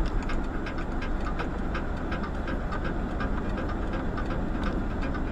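Vehicle driving: a steady rumble of road and engine noise, with many small clicks and rattles over it.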